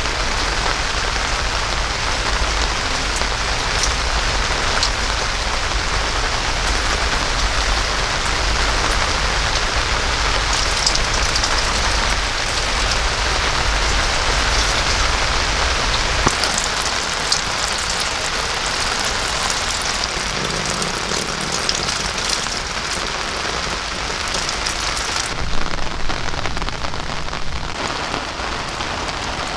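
Heavy rain falling steadily, with scattered individual drops ticking sharply over the dense hiss. About 25 seconds in, the sound turns duller as its brightest part falls away.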